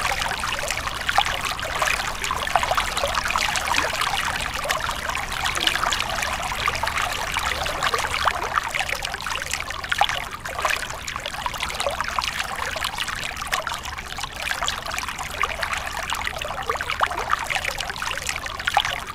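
Running water trickling and splashing steadily, a dense patter of many small splashes with little deep rumble.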